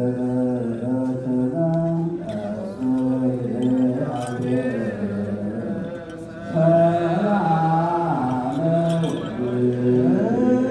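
Voices chanting an Ethiopian Orthodox hymn in a slow melody of long held notes that step up and down. The phrase breaks off about six seconds in, and a louder one begins.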